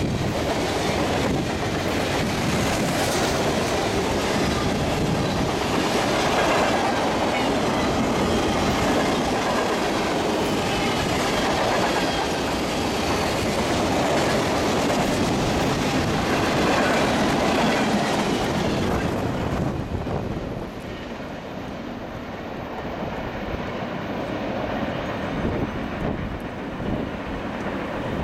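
Freight train's cars rolling past close by, steel wheels clacking over the rail joints. About twenty seconds in the sound drops and grows duller as the train draws away around the curve.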